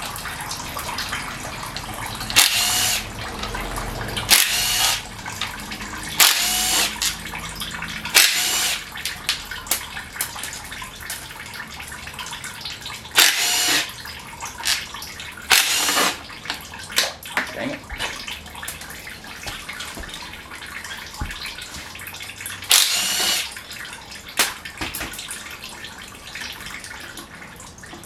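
A power tool runs in about seven short bursts of roughly half a second each, spinning out oil pan bolts. A steady background noise runs between the bursts.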